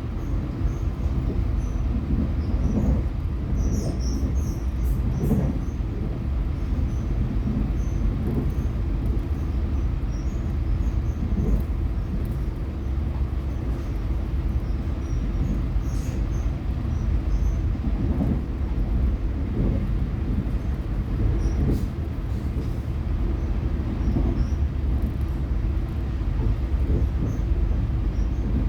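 Passenger train running, heard from inside the carriage: a steady low rumble of wheels on the track, with scattered faint high squeaks and a few sharp clicks.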